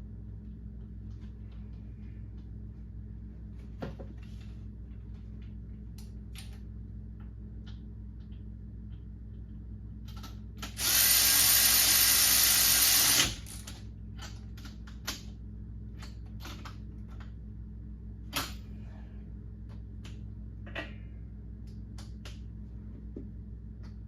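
A shop tool runs in one loud, steady burst of about two and a half seconds, amid small clicks and knocks of parts being handled.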